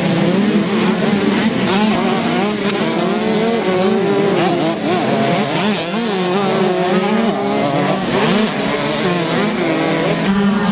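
Several two-stroke 125 cc motocross bike engines racing together, their pitches rising and falling as the riders rev on and off the throttle.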